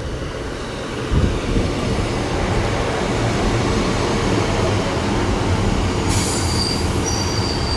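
A double Class 150 Sprinter diesel multiple unit pulling into the station: diesel engine rumble and wheel noise building up, with high-pitched brake squeal starting about six seconds in as it slows to stop.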